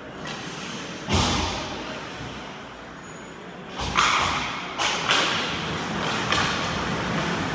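Ice hockey play heard from beside the net: hard thuds against the rink boards, one loud one about a second in and several more from about four seconds in, over steady rink noise.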